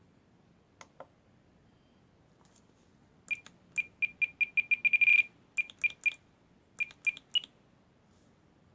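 Short, high-pitched electronic beeps from the RC gear, about twenty in irregular runs, bunching into a quick burst midway, after two faint clicks.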